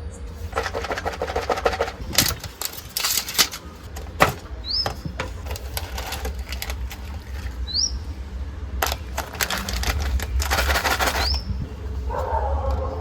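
Bursts of rapid crackling and clicking, like handling or rustling, with a few sharp clicks, four short high rising chirps and a steady low hum underneath.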